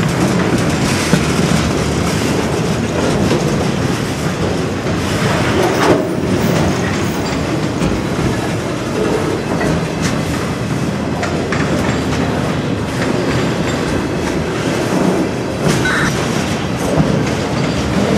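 Freight train of trailers on flatcars rolling steadily past close by: a continuous rumble of wheels on rail with the clickety-clack of wheels over the rail joints.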